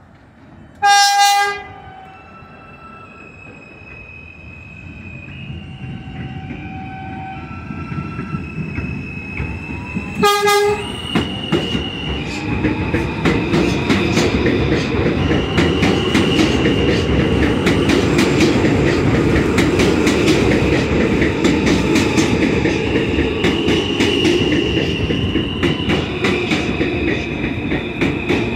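New York City subway R160A-1 train departing a station: two short horn blasts, about nine seconds apart, over the rising, stepped whine of its traction motors as it pulls away. Then a growing rumble and clatter of wheels on the rails as it speeds up and passes.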